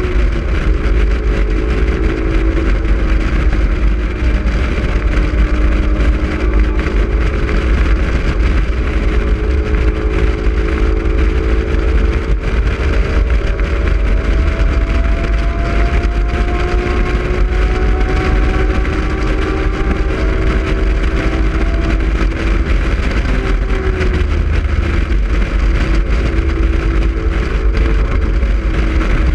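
Honda S2000 four-cylinder engine pulling hard at speed, its pitch climbing slowly, then dropping a few seconds before the end as the car slows. Heavy wind buffeting on the open-top cabin.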